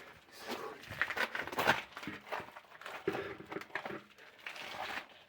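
Irregular rustling and scuffing: clothing and shoes brushing and scraping against rock while squeezing through a narrow lava cave, with scattered small knocks.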